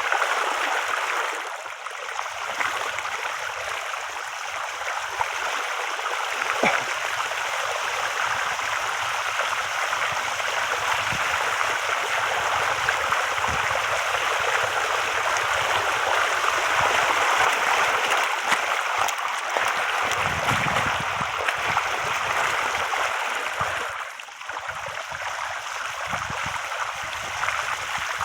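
Water rushing steadily over rocks in a stream, an even noise with no pauses that eases slightly near the end.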